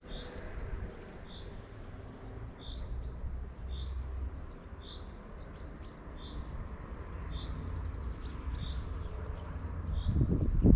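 A bird repeats a short, high call note about once a second, with a few higher twittering phrases from other birds. Underneath is a low rumble of wind on the microphone that swells near the end.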